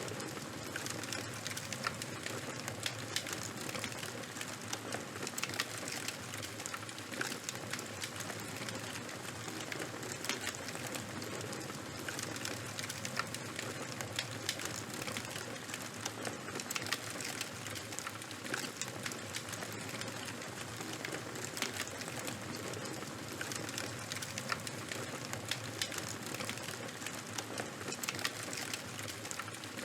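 Charcoal and wood fire burning, crackling steadily with frequent small pops and snaps over a constant soft hiss.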